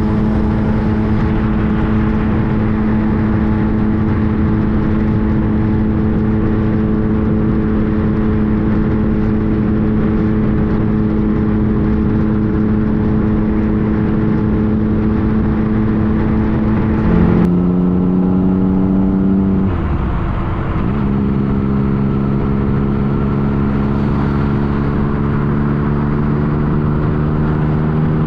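A 2015 Yamaha FJ-09's three-cylinder engine running steadily at cruising revs, with wind and road noise. About two-thirds of the way in the engine note steps down. A few seconds later it dips briefly and settles at a lower pitch, as the revs drop through gear changes.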